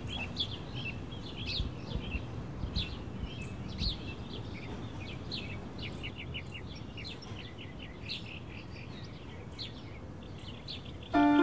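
Several small birds chirping and twittering over a low background rumble, with a quick run of chirps about six seconds in. A plucked-string melody starts right at the end.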